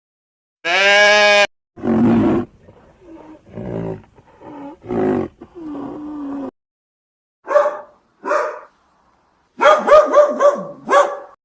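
A run of separate animal calls: a single bleat, then several seconds of low, rough growling roars typical of a big cat, then a quick burst of barks near the end.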